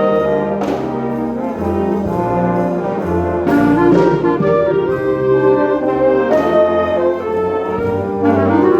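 Concert wind band playing, brass leading with full sustained chords over a bass line, with a few percussion strikes marking the beat.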